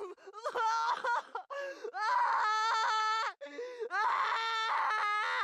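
A voice wailing and screaming in long, high-pitched cries, three drawn-out ones with short breaks between.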